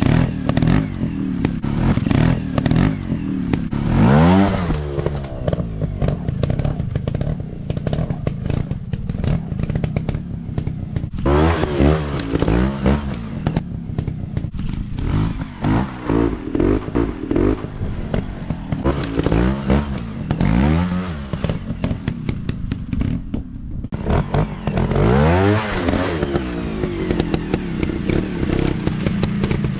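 Small dirt bike engines revving up and dropping back again and again, with clattering knocks throughout.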